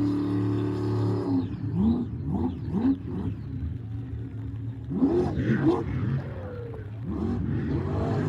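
Monster truck engine held at high revs for about a second, then blipped in a string of quick revs that rise and fall.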